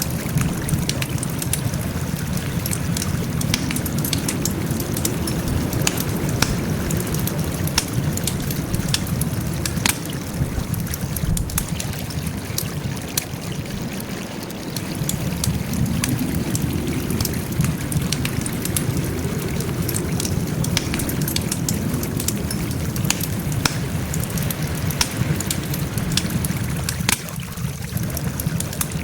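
Wood fire burning: a steady low rush of flames under dense, irregular crackles and sharp pops from the burning wood.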